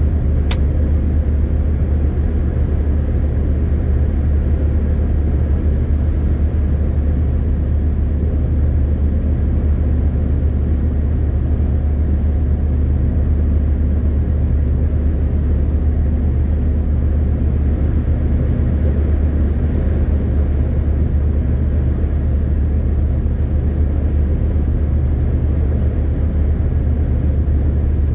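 MAN TGX 18.520 lorry driving steadily: an even low engine drone with road rumble, unchanging throughout, with a single sharp click about half a second in.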